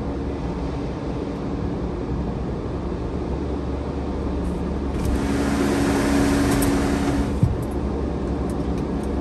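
Steady low hum of a car heard from inside its cabin in an automatic car wash. About five seconds in, a hissing rush with a steady whine from the car wash machinery swells for about two seconds and ends with a single sharp knock.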